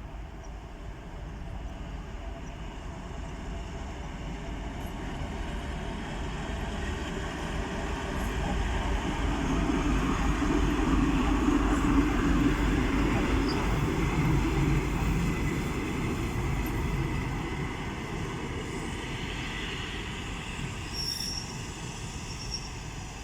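DM62 diesel railcar hauling a work train slowly past, its engine and wheels on the rails growing louder to a peak about halfway through and then fading away. A few thin, high wheel squeals come near the end.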